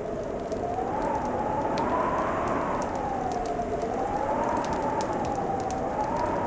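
Wood fire crackling, with scattered sharp pops over a steady hiss. Through it runs a whistling tone that slowly rises and falls in pitch.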